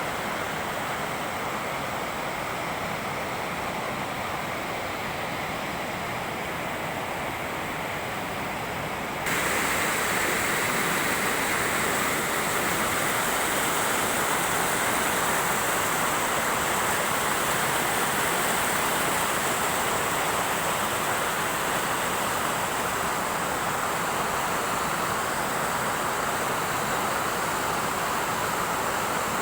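Water of a river rushing over a waterfall: a steady, even rushing noise. About nine seconds in it suddenly steps up, louder and with more hiss.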